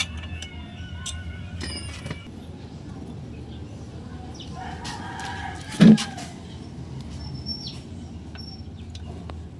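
A rooster crowing in the background a little past the middle, with one loud sharp knock near its end and a few light clicks and taps over a steady low hum.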